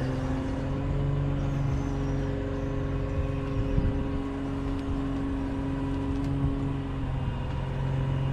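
A diesel engine of a piece of heavy equipment running steadily at a low, even speed, with a few faint clicks.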